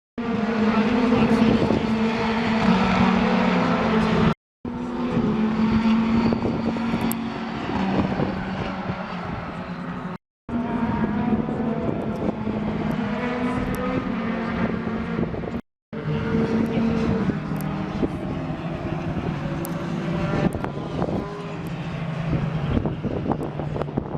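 Touring car engines racing past at high revs, with held engine notes that step in pitch and a rough, noisy edge. The sound cuts out abruptly three times.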